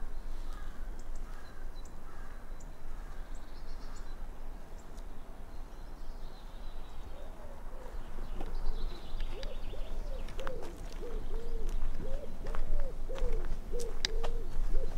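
Low bird calls in woodland: from about halfway, a run of short hooting notes repeats about twice a second, with faint high chirps earlier and scattered clicks underneath.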